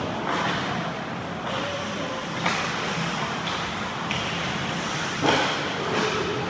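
Ice hockey play on a rink: a steady scraping hiss of skates on the ice, with two sharp hits, one about two and a half seconds in and a louder one just past five seconds.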